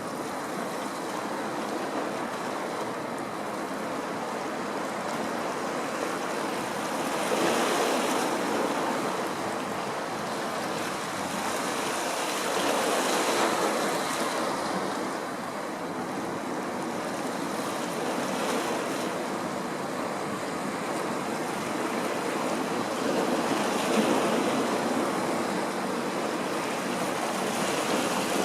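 Waves washing in against the shore, swelling in surges every five or six seconds, with wind and a faint steady hum underneath.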